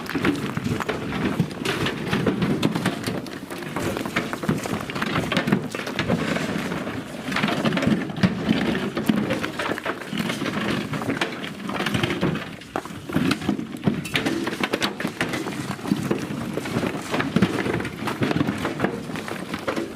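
Crushed stone ballast pouring and rattling out of a railway hopper wagon onto the track: a continuous rumbling rush with dense irregular clatter of stones, swelling and easing every few seconds.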